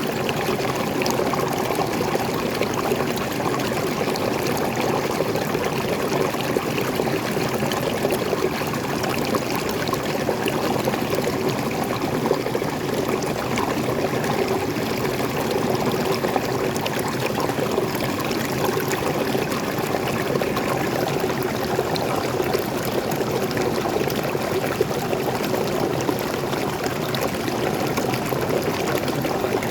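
Small waterfall of fresh water pouring and splashing steadily over rocks, a continuous rushing and trickling with no breaks.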